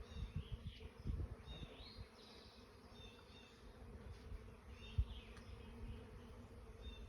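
Honeybee colony buzzing steadily in a low hum, with a few low thumps in the first second or so and a single sharp knock about five seconds in.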